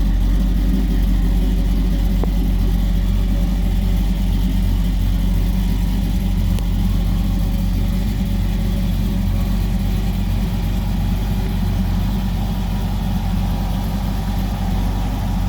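A 383 small-block V8 with long-tube headers idling steadily, its exhaust running at an even low pitch with no revving.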